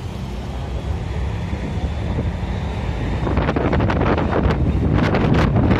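Strong wind buffeting the microphone over a low, steady rumble; the gusts get harder and louder about three seconds in.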